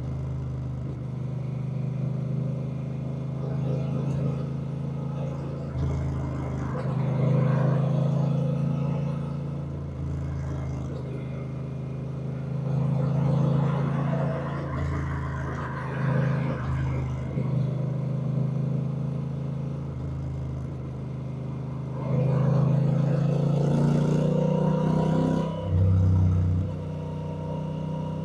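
Honda Rebel 1100's parallel-twin engine running under way, its note stepping up and down several times as the bike speeds up and eases off, with wind rushing past the microphone. It is loudest for a few seconds near the end.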